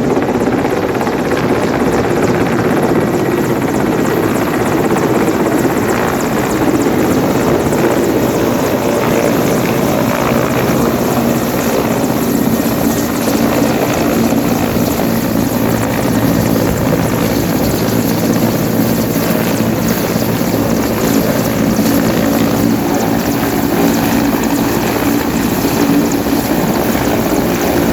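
Helicopter running close by, its rotor and engine noise loud and steady, at the landing.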